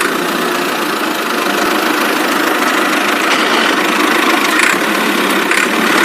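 A motor running steadily at an even speed.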